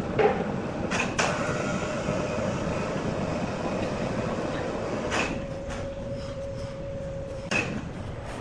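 Large sawmill circular saw running with a steady hum, and sharp knocks a few times, about five in all.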